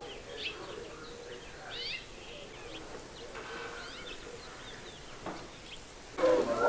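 Birds chirping outdoors: a few short, faint chirps at intervals over quiet background hiss. Near the end a louder sound with held tones sets in.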